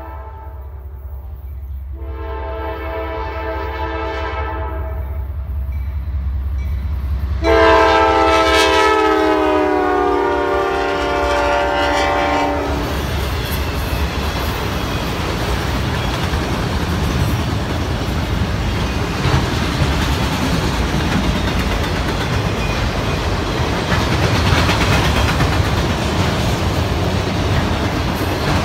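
Freight train horn blowing as the train approaches: a short blast at the start, a longer one about two seconds in, and the longest and loudest about seven seconds in, its pitch dropping as the locomotive goes by. Then freight cars rolling past with a steady rumble and clickety-clack of wheels on rail joints.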